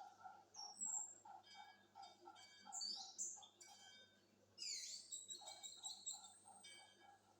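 Orange-headed thrush (anis merah) singing: quick high whistles, sweeping glides and trills. Under the song run a bakso seller's steady strokes on a bowl, about three a second, at the start and again from about the middle.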